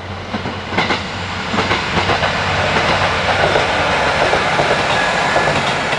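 Passenger train running past, its wheels clattering over rail joints, louder through the middle.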